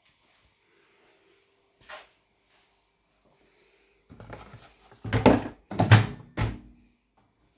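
Household handling noises: a single click about two seconds in, then a run of loud knocks and rattles, like a cupboard or appliance door and objects being moved, with three heavy thuds between about five and six and a half seconds.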